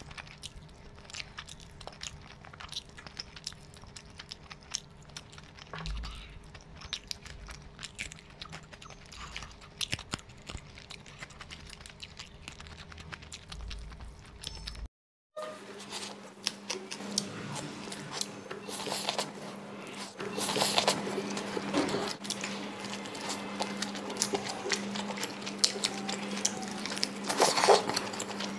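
Close-up eating sounds of chicken being eaten by hand: wet chewing, lip smacking and crisp bites, as quick small clicks. About halfway through there is a brief cut to silence, and the eating goes on louder over a steady low hum.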